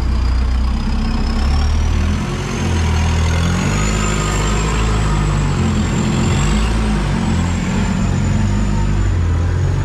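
Off-road 4x4's engine running with a low, uneven drone, heard from inside the cab, with a thin high-pitched whine over it that rises slowly and then holds.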